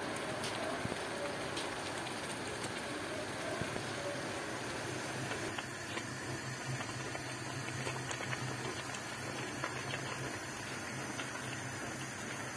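Liquid boiling in a cauldron over a wood fire: a steady bubbling hiss with scattered small crackles. A low steady hum joins about halfway through.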